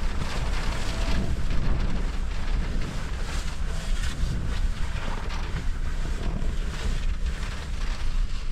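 Strong wind blowing across the microphone: a steady low rumble with a gusting hiss over it.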